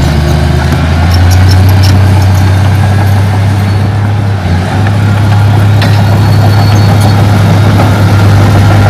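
Heavy diesel engine of earthmoving machinery running steadily. Its note rises slightly about a second in and dips briefly about halfway through.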